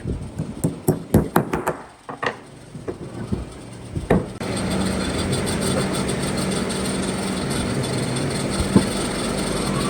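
A quick run of sharp knocks on wood, like hammer or mallet blows, then a couple of single knocks. About four seconds in, a steady machine noise with a low hum starts and keeps running.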